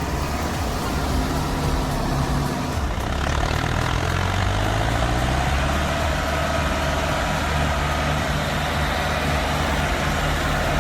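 Heavy tractor diesel engine running steadily, its pitch rising slightly a few seconds in.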